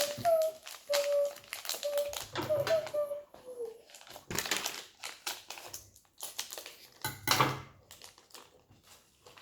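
Plastic toy packaging crinkling and rustling in hand as blind packs are opened, in irregular bursts, loudest about halfway through and again near three-quarters of the way.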